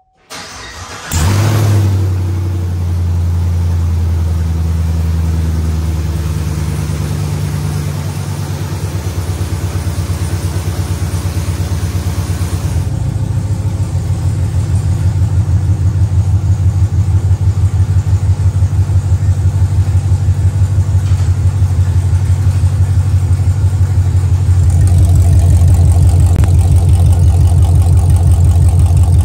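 Chevrolet Camaro SS 1LE's 6.2-litre V8 being started with open long-tube headers, no exhaust attached: a brief crank, catching about a second in with a rev flare, then a loud, fast, evenly pulsing idle straight out of the header collectors.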